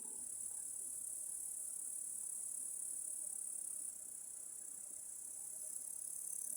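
Steady high-pitched chirring of field insects, with no train audible yet.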